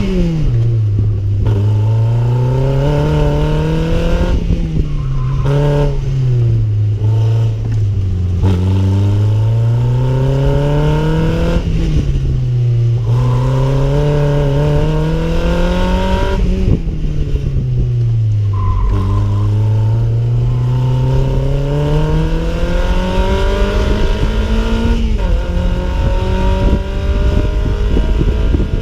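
Toyota MR2 Spyder's 1ZZ-FE 1.8-litre four-cylinder engine being driven hard: engine speed climbs steadily and drops sharply, about six times over, as the car accelerates, lifts and brakes through the course.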